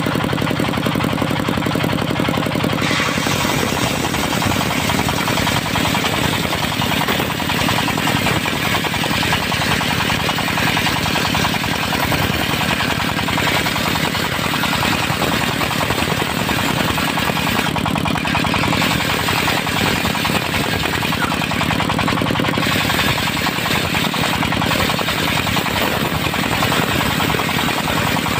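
Diesel engine driving a mobile circular sawmill, running steadily with a rapid knock, joined about three seconds in by a harsh, hissing saw noise as the blade cuts dry teak.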